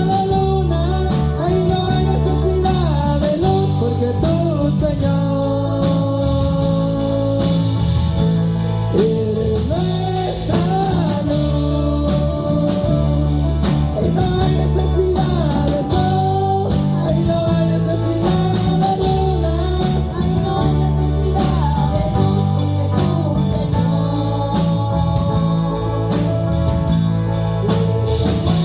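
Live worship band music with singing: a voice carrying the melody over steady bass and a regular beat, all captured as room sound.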